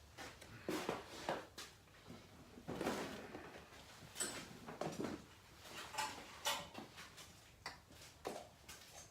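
Irregular clicks, knocks and rustles of small parts being picked up and handled on a workbench, as someone searches out an old part.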